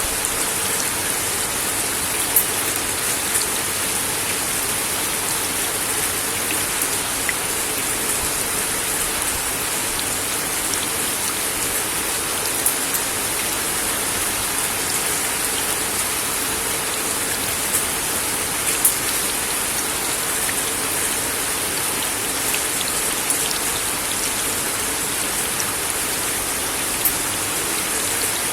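Steady rain falling on a wooden deck: an even hiss with now and then a single sharper drop tick.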